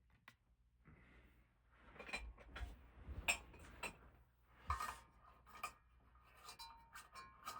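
Compact fluorescent bulbs being screwed into a ceiling fan's light-kit sockets: faint scraping and rubbing with scattered clicks and clinks, and a thin squeak near the end as a bulb turns in its socket.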